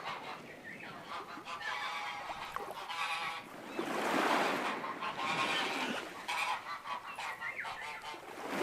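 Geese honking, many overlapping honks in irregular runs.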